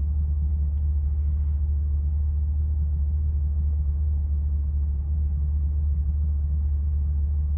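The 2020 C8 Corvette's 6.2-litre LT2 V8 idling, a steady low rumble heard from inside the cabin.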